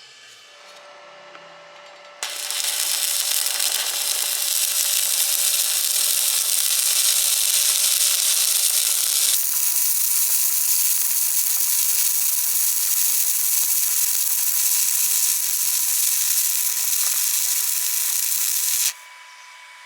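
Electric arc welding: a loud, steady hiss that starts suddenly about two seconds in, shifts abruptly in character about halfway through, and cuts off just before the end.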